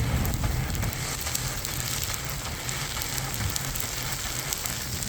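Outdoor snowstorm ambience: a steady hiss with many small scattered ticks over a low rumble.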